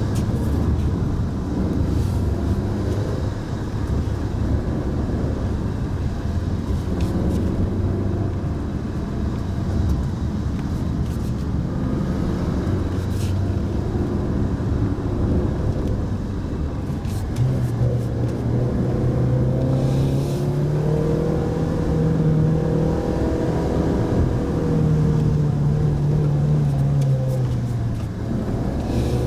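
Mitsubishi Pajero Mini kei SUV driving along, its small engine running steadily with road noise. Through the second half the engine note rises and falls as the revs change.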